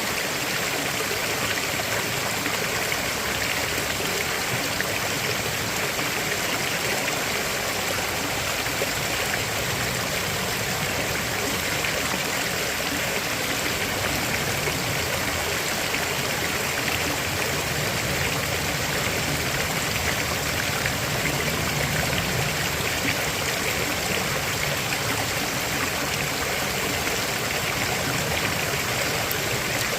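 River flowing over rocks: a steady rush and trickle of running water.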